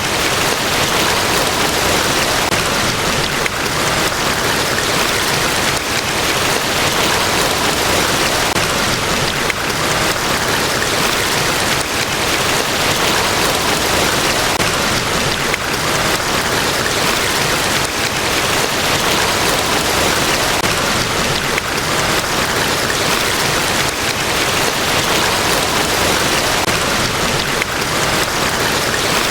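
Large waterfall: a loud, steady rush of falling water with no breaks, swelling only slightly now and then.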